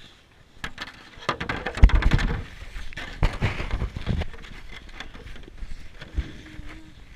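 Rough scraping and crunching with many sharp crackles and several heavy thumps, loudest about two seconds in, as of a body or sled sliding over snow, easing to a quieter rustle in the second half.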